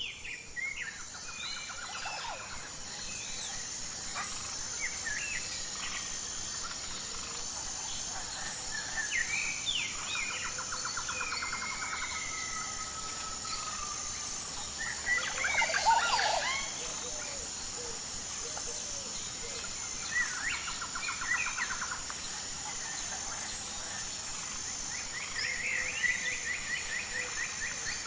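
Several wild birds calling and singing, with short whistled notes and rapid trills repeated every few seconds over a steady high-pitched buzz. A busy burst of calls a little past halfway is the loudest moment.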